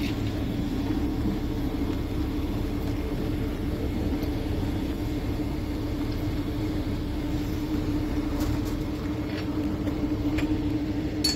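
Moving train: a steady rumble with a steady hum under it. A few faint clicks come near the end.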